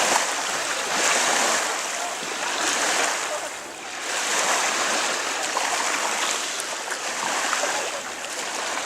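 Small sea waves washing on the shore: a steady hiss that swells and fades every second or two.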